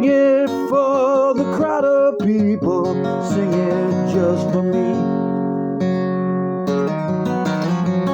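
Acoustic guitar strummed under a singer holding a wavering note for the first few seconds. The guitar then goes on alone: one chord is left to ring a little past the middle, then the strumming picks up again.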